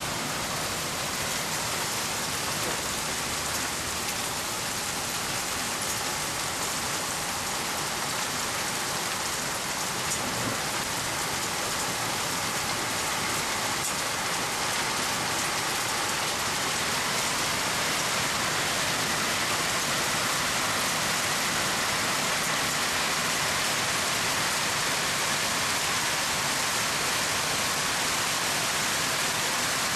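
Rain falling steadily, a continuous hiss of rain on surfaces that grows slightly louder about halfway through.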